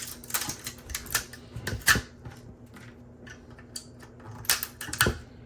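Plastic support material being snapped and pried off a 3D-printed helmet: irregular clicks, cracks and scrapes of hard plastic, sharpest about two seconds in and again near the end.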